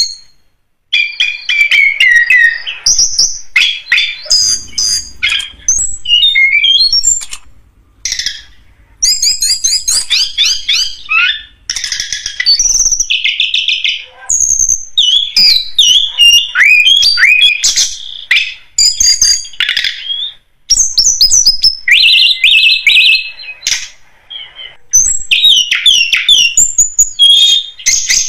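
Tledekan gunung song played as a lure call: a busy run of quick, varied high chirps, slurred whistles and short trills, delivered in phrases with brief pauses between them.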